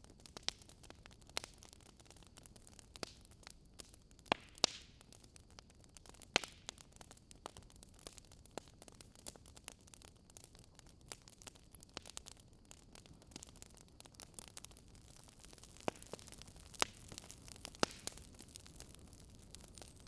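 Campfire crackling: irregular sharp pops and snaps over a steady soft hiss, a few of them standing out louder than the rest.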